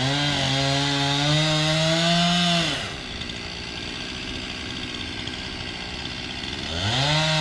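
Chainsaw engine revved up to full throttle and held for about two and a half seconds, then dropping back to idle, with a second short rev near the end.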